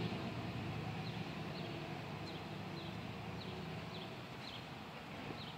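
A bird calling repeatedly in short, falling chirps, about two a second, over a low steady background hum.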